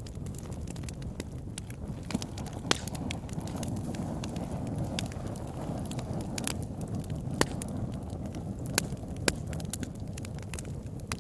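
Campfire burning with a steady low whoosh of flames and irregular sharp crackles and pops from the burning wood, a few of them loud.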